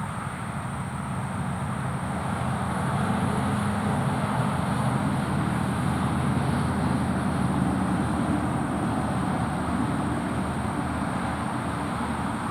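Motor-vehicle traffic rumbling past on a nearby road, growing louder a couple of seconds in and easing off slightly near the end.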